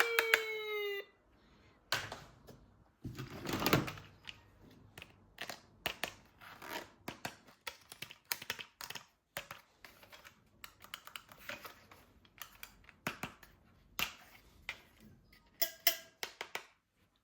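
An electronic toy siren tone, falling in pitch, cuts off about a second in. Then come irregular clicks, taps and knocks of hard plastic toy parts being handled, with the loudest clatter about four seconds in.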